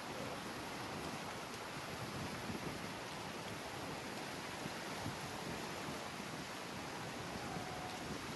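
Strong wind blowing across the microphone: a steady rushing noise with gusty low rumbling.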